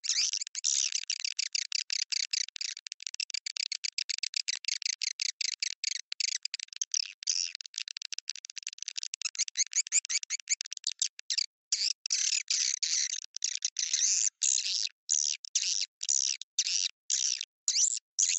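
Swiftlet lure call (suara panggil) played from a recording: dense, rapid, high-pitched twittering chirps of swiftlets. About halfway through, the twittering breaks into short bursts separated by brief silences. It is a call sound used to draw swiftlets into a swiftlet house.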